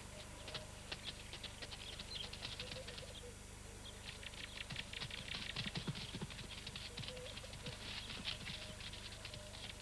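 Rapid, irregular pattering and scrabbling of running feet on dry ground and brush, busiest in the second half.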